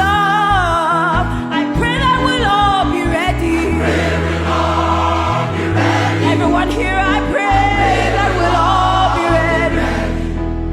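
Gospel song: a choir singing a melody with vibrato over an accompaniment with a sustained bass line, which is played in short rhythmic notes for the first few seconds.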